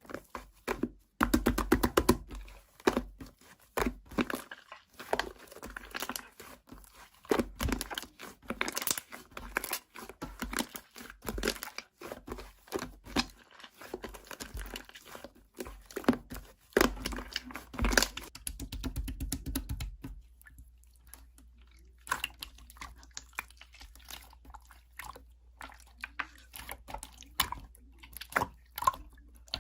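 Slime being squeezed, pressed and stretched by hand: a quick run of sticky pops, clicks and crackles. It thins to sparser, quieter pops in the last third.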